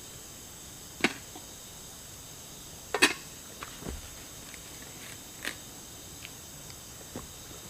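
Steady forest insect chorus, high-pitched and continuous, broken by a handful of sharp clicks and knocks at irregular intervals, the loudest about three seconds in.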